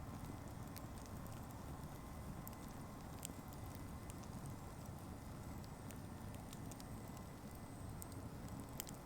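Faint outdoor night ambience with a low steady rumble and sparse sharp crackles, typical of a small campfire or coals.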